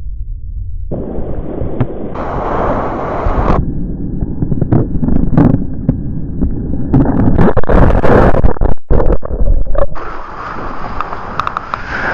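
Surf and wind noise on the microphone: rushing water and heavy buffeting that grows louder about a second in and is roughest in the middle, with sharp knocks.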